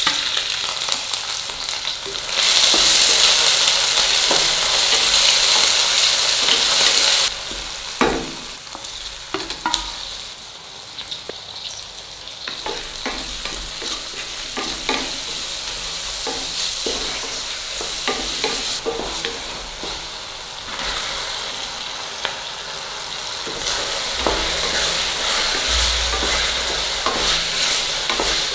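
Shallots, garlic, then tomato and chicken pieces frying in sesame oil in a stainless-steel pressure cooker, sizzling steadily while a wooden spatula stirs and scrapes the pan. The sizzle is loudest for about five seconds near the start, softer through the middle with scattered scrapes, and louder again near the end.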